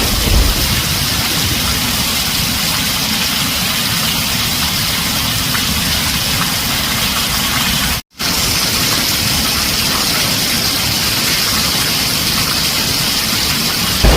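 Heavy rain drumming steadily on a tin roof, with no thunder; the sound cuts out completely for a split second about eight seconds in.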